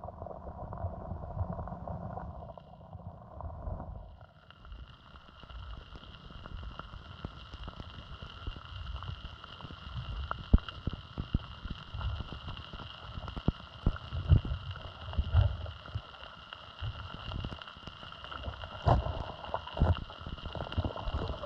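A small stream flowing, with gurgling water, irregular low rumbles and scattered clicks. A steady high hiss joins about four seconds in.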